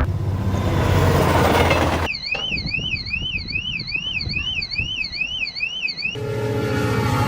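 Electronic warbling alarm, its pitch sweeping up and down about two and a half times a second, starting about two seconds in and cutting off abruptly after about four seconds. Before and after it there is a low rumble with a steady hum.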